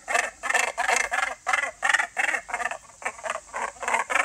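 Gannet calling: a rapid string of rough calls, about three a second.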